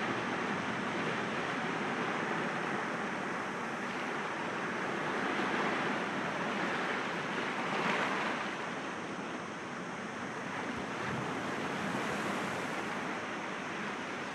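Sea waves breaking gently against rocks: a continuous wash of surf that swells and eases, loudest about eight seconds in.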